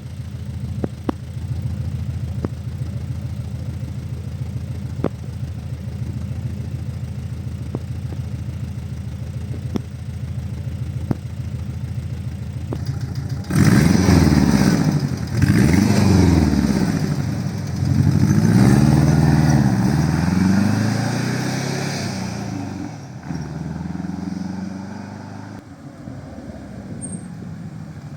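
1995 Volkswagen Beetle 1.600i's air-cooled flat-four engine idling steadily. About halfway through it is revved several times, rising and falling, the third rev held longest, then it settles back to idle.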